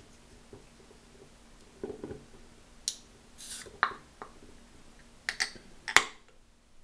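Aluminium energy-drink can being opened: a sharp pull-tab click about three seconds in, then a short fizzing hiss as the pressure escapes, followed by several more sharp clicks and knocks, the loudest near the end.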